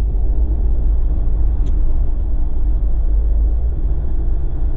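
Jeep driving on a snowy road: a steady low rumble of engine and tyre noise.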